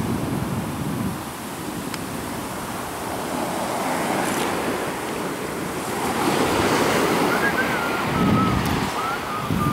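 Ocean surf crashing and washing in close by, a steady rush that swells louder from about six seconds in, with wind buffeting the microphone.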